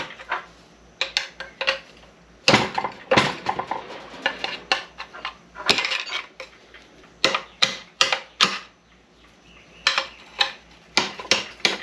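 Sharp, irregular metal-on-metal clanks and clicks from hand tools working a bearing off an SM465 transmission shaft, coming in clusters with short quiet gaps between.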